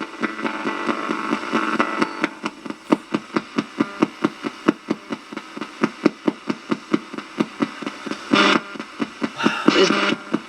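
Ghost-hunting electronic device giving rapid, even clicks, about five a second, like a radio sweep, with two short denser bursts near the end.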